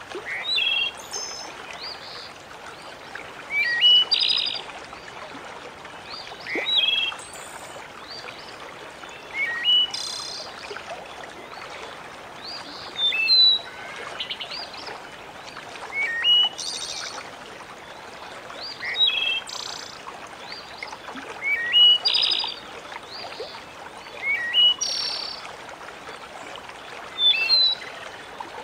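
Birds chirping in short, bright calls that recur every two to three seconds over a steady hiss of flowing water.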